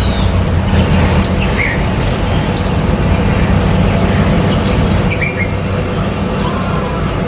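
A steady low mechanical hum, the loudest sound, with short high bird chirps scattered over it every second or so.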